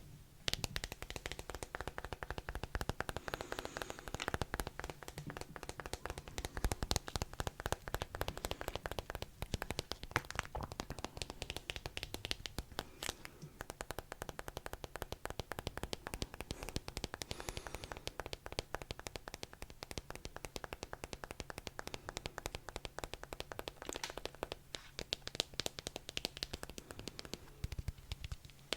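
Close-miked ASMR trigger: a dense, rapid stream of small crackling clicks.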